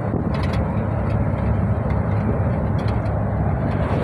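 Truck engine and road noise heard from inside the cab while driving: a steady low drone with a few faint ticks.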